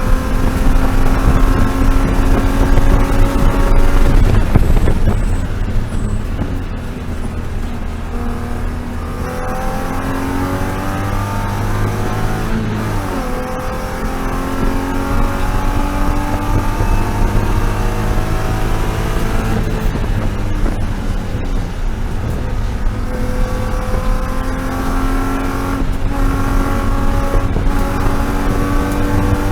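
BMW E36 M3 race car's straight-six engine pulling hard. Its pitch climbs steadily through each gear and falls away at every lift or shift. It is loudest in the first few seconds, with a sharp drop in pitch about thirteen seconds in.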